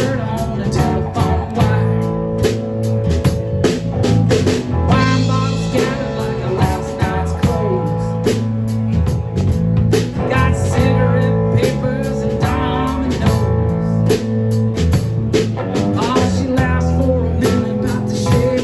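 A band playing a blues-flavoured song: guitar and bass over a steady drum-kit beat, with a singer's voice.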